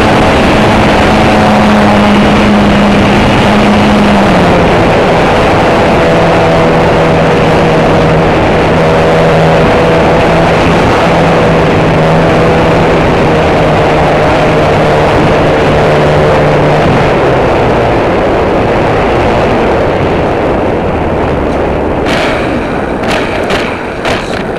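Radio-controlled model airplane's motor and propeller droning steadily, its pitch stepping down about four seconds in as it is throttled back, then fading away, under heavy wind buffeting on the microphone. A few sharp clicks near the end.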